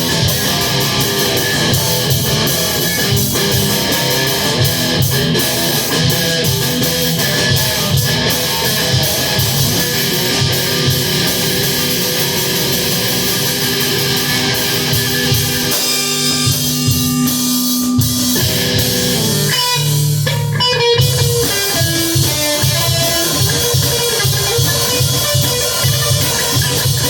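Electric guitar and drum kit playing a rock piece together at rehearsal. About sixteen seconds in the drumming thins out while a held guitar note rings, and the full playing picks up again about twenty seconds in.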